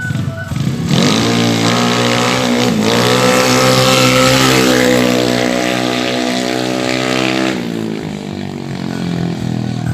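Race-tuned Yamaha Mio automatic scooter's single-cylinder engine, bored up to 150cc, revved up sharply about a second in and held at high revs for several seconds, then dropping back to a lower speed near the end.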